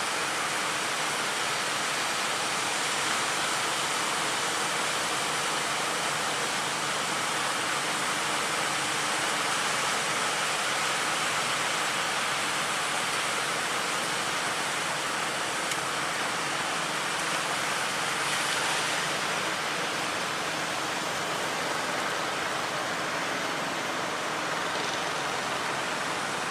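Steady, even rushing noise of water, with no engine tone or separate splashes standing out.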